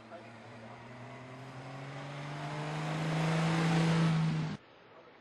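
A classic racing car's engine accelerating up the hill, its note climbing steadily in pitch and growing louder, then cutting off suddenly about four and a half seconds in.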